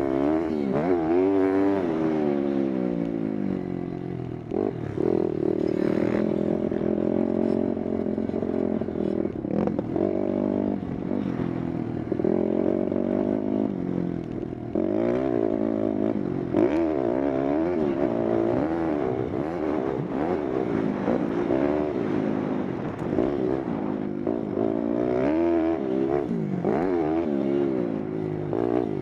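Pitster Pro LXR pit bike engine being ridden, revving up and dropping back over and over as the throttle opens and closes, with occasional short clicks and rattles.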